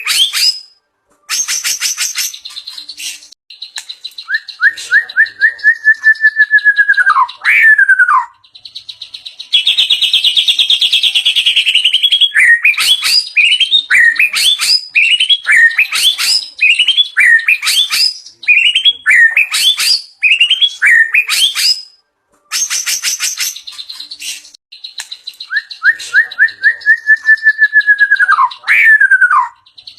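White-rumped shama singing loudly, a varied song packed with imitated calls. It moves through runs of quick rising notes, buzzy trills and a drawn-out falling whistled phrase, which comes twice.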